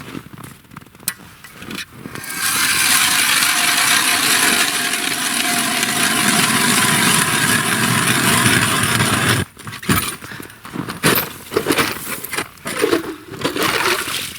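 Ice auger drilling a hole through river ice: a loud, steady run that starts about two seconds in and stops suddenly after about seven seconds, followed by irregular scrapes and knocks.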